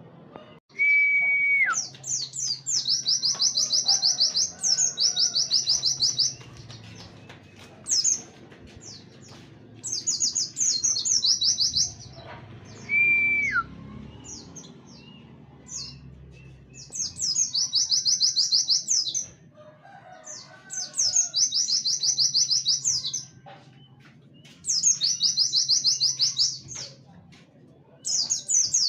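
White-eye (pleci) singing in repeated bursts of fast, very high-pitched trills a few seconds long: the 'wit wit' burst song with canary phrasing that is used as a master song for tutoring other songbirds. Twice, a single clear whistled note slides down at its end.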